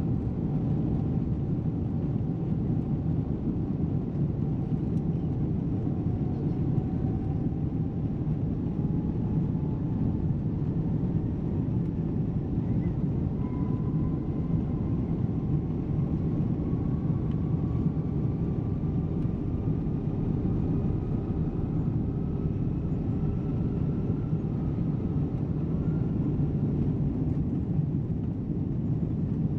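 Steady cabin rumble inside a Boeing 777 airliner, with a faint whine that slowly rises in pitch.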